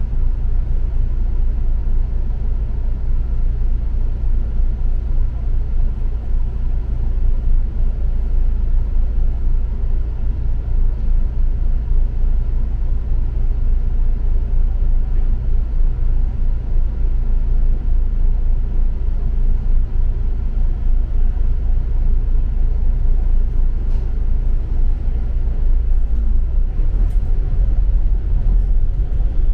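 Double-decker bus on the move, heard from on board: a steady low engine and road rumble.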